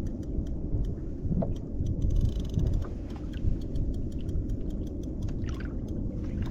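Steady low rumble of wind buffeting the microphone, with faint rapid ticking running through it.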